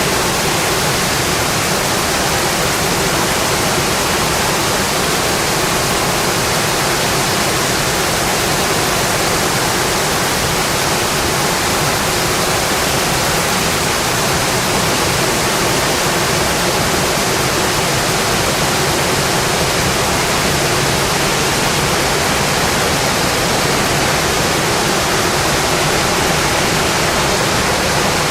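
Steady, dense rain falling on a metal roof, an even hiss with no pauses or letup.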